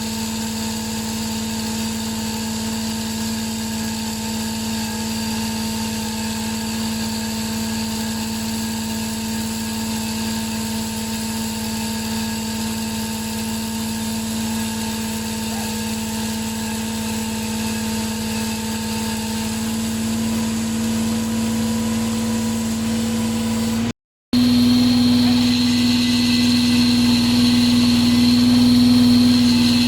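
Hydraulic diamond chain saw and its power unit running with a steady, even drone. After a brief break about 24 s in, it comes back a little louder with a higher whine added.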